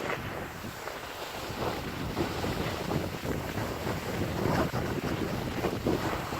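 Wind buffeting the GoPro's microphone: a steady, rough rushing noise.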